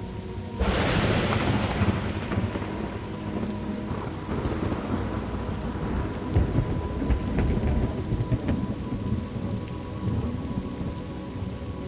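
Thunderstorm: steady rain falling while a thunderclap breaks about half a second in and rumbles on, fading slowly over several seconds.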